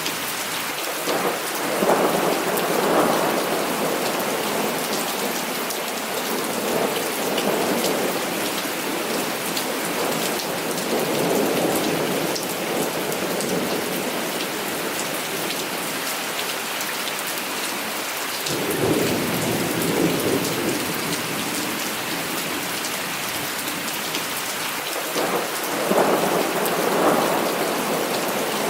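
Heavy rain falling steadily, with rolls of thunder that swell and fade about five times: around two seconds in, twice more before the middle, once about two-thirds through, and again near the end.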